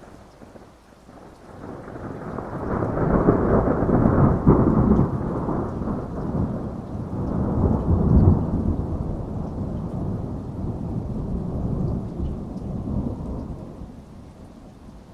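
A long roll of thunder over steady rain: the rumble swells about two seconds in, peaks twice, and dies away near the end.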